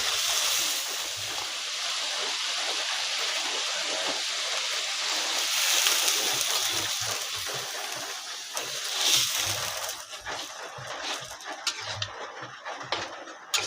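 Heavy rain falling in a steady, dense hiss that eases after about ten seconds, with scattered light clicks and knocks.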